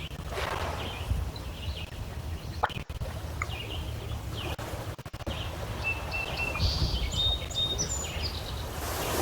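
Small birds chirping and calling, with short high chirps throughout and a run of whistled notes in the second half, over a low steady rumble of wind and water.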